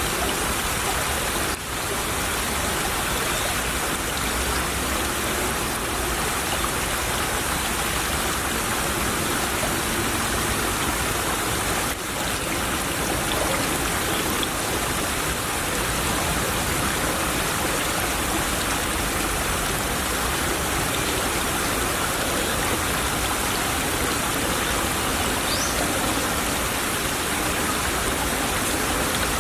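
Shallow stream babbling and trickling over rocks, a steady rush of water.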